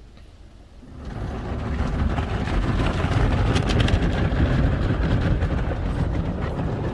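Belanger Freestyler car wash brushes and water spray starting to work on the car, heard from inside the car: a dense wash of noise that swells up about a second in and then stays loud.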